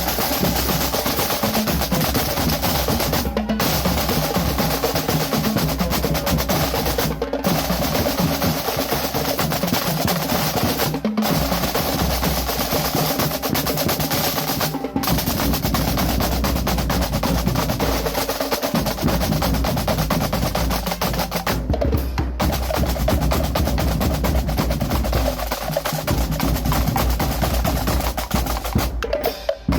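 Music driven by fast, dense drumming that plays without letup. It breaks off for an instant about every four seconds in the first half.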